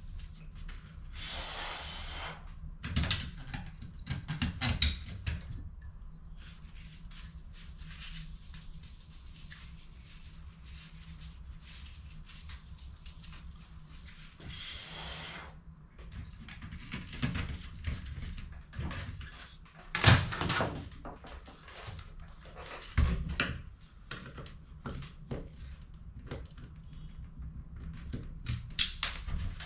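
Plastic HP CE285A toner cartridge parts being handled and worked on: scattered clicks and knocks, the sharpest about two-thirds of the way through, with a couple of brief hisses. A steady low hum runs underneath.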